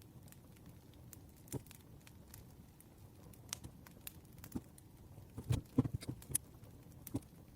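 Campfire crackling: irregular sharp pops and snaps over a faint hiss, a quick cluster of louder pops a little past halfway.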